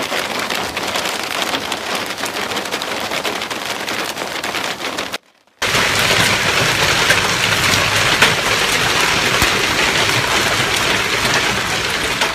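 A storm downpour pelting hard surfaces: a dense patter with many sharp ticks. It comes in two stretches split by a brief break about five seconds in, and the second stretch is louder.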